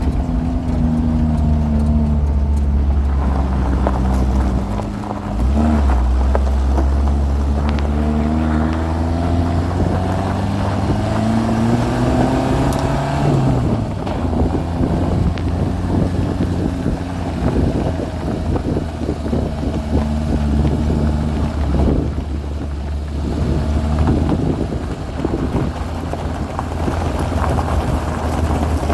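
Suzuki LJ80's small four-cylinder petrol engine running under load off-road. The engine note sinks, dips briefly about five seconds in, climbs steadily until about halfway through, then runs rougher and noisier with the throttle rising and falling.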